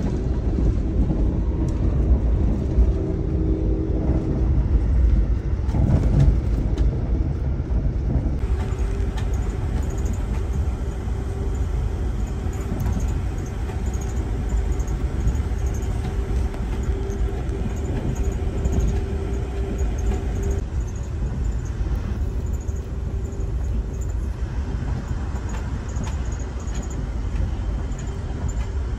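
Steady low rumble of a moving vehicle heard from inside the cabin, with a constant hum tone over it.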